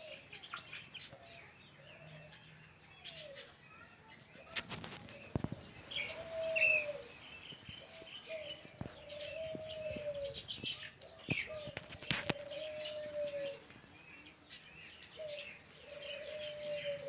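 Aviary birds: repeated low cooing calls over steady chirping from small birds, with a few sharp wing flaps, one about five seconds in and one about twelve seconds in.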